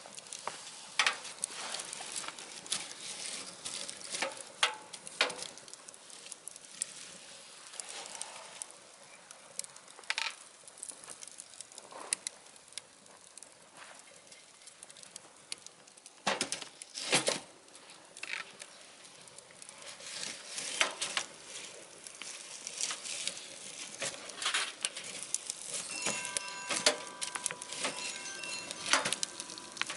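Wood fire burning in a wood stove, crackling with irregular snaps and pops; the loudest is a pair of sharp pops a little past halfway.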